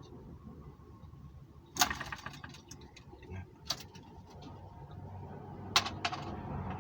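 Sharp clicks and light rattling from hands working a tiny M12B four-stroke gasoline model engine during a failed start attempt: a quick run of clicks about two seconds in, then single clicks near four and six seconds. The engine does not fire.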